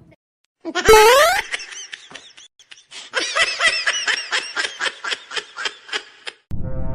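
A short, loud rising squeal about a second in, then someone laughing in a quick run of high giggles for about three seconds.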